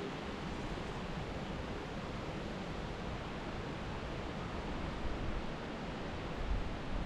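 Steady wind: an even rushing hiss with an uneven, gusty low rumble beneath it.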